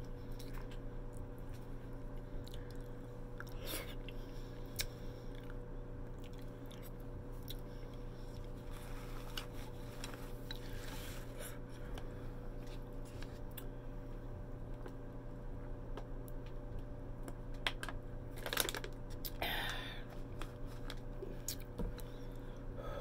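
Close-miked chewing and wet mouth noises of someone eating stuffed cabbage, with short clicks of wooden chopsticks against a glass bowl now and then. A few louder mouth noises come a few seconds before the end. A steady low hum runs underneath.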